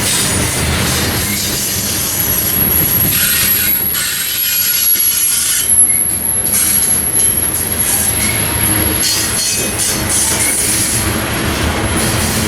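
Freight train rolling past on the rails, with a steady high-pitched wheel squeal from a few seconds in until near the end.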